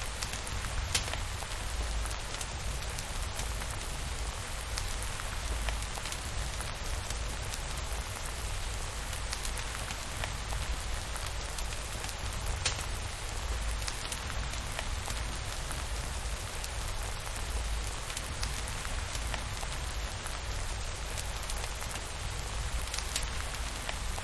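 Steady rain falling, an even hiss over a low rumble, with scattered small sharp ticks throughout.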